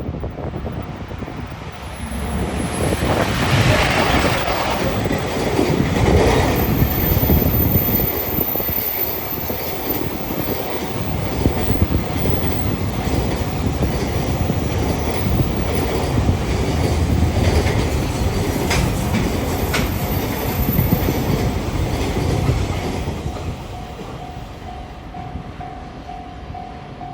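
A train passing over a level crossing: wheel rumble and clatter on the rails build about two seconds in, stay loud for some twenty seconds, then fade. Near the end the crossing's warning bell can be heard ringing again in a steady pulse.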